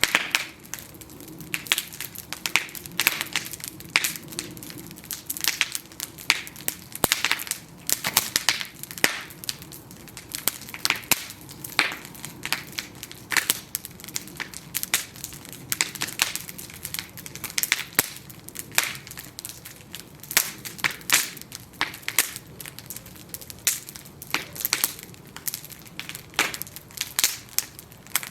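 Bonfire of burning wooden planks crackling, with frequent irregular sharp pops and snaps over a soft low rumble of flame.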